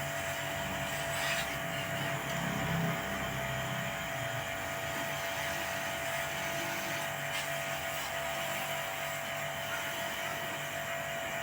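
Pressure washer running steadily while washing an air-conditioner part: an even hiss with a steady whine.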